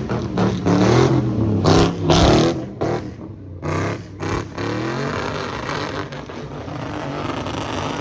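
Car engine revving hard, its pitch rising and falling repeatedly as it is driven at full throttle. It is loudest in the first two and a half seconds, then holds steadier.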